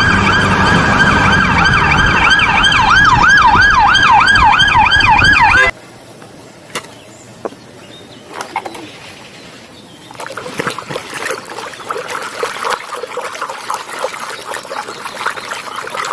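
Police-car siren sound with steady tones and a wailing pitch that quickens into a fast yelp, then cuts off suddenly about six seconds in. Quieter clicks and water sounds of toys being handled and washed follow.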